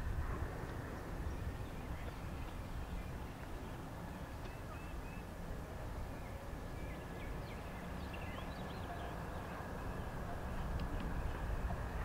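Open-air ambience: a steady low rumble with small birds chirping faintly now and then, a little more often near the end.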